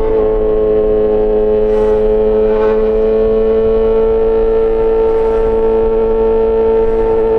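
Yamaha XJ6 S inline-four motorcycle engine running through an SC-Project aftermarket exhaust, held at steady revs with an even, unchanging pitch.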